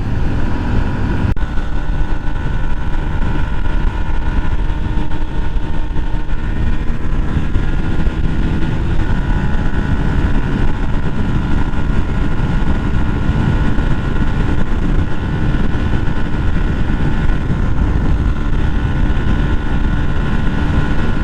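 Yamaha 125 cc motorcycle's single-cylinder engine running at a steady speed, with heavy wind rush on the helmet-mounted microphone.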